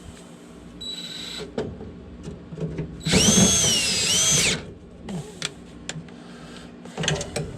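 Cordless drill driving a screw to refasten a furnace part, running for about a second and a half with its motor whine rising and dipping with the trigger. Scattered clicks and taps of parts being handled come before and after it.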